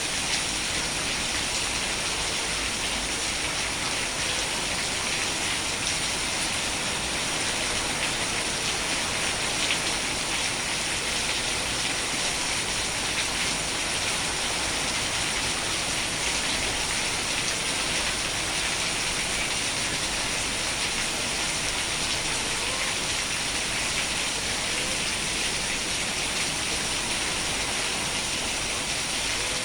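Steady, heavy rainfall: a continuous hiss of rain with a dense patter of individual drops hitting a surface.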